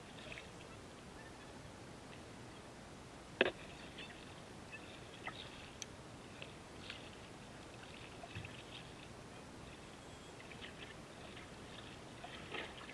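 Kayak paddling on calm water: faint, soft paddle splashes and drips, with one sharp knock about three and a half seconds in.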